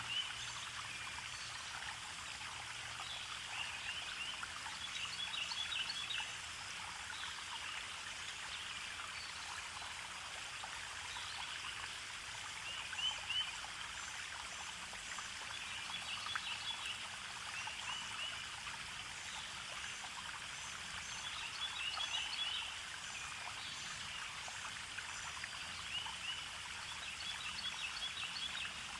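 A stream running steadily, with birds chirping in short repeated phrases every few seconds.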